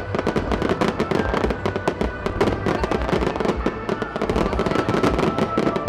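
A fireworks display with many shells going off in quick succession: a dense, continuous run of bangs and crackles.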